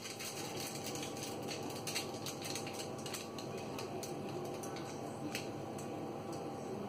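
Thick brownie batter being poured and scraped out of a mixing bowl into a foil-lined baking pan: a quick run of small clicks and scrapes, busiest over the first three seconds or so, then a few scattered ones.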